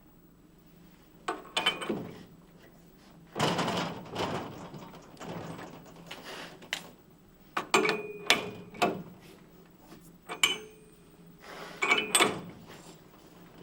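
Metal gearbox parts of an Atlas Copco COP 1838 rock drill being handled: a series of knocks and clinks, several of them ringing briefly, with a longer scraping or sliding sound about three seconds in.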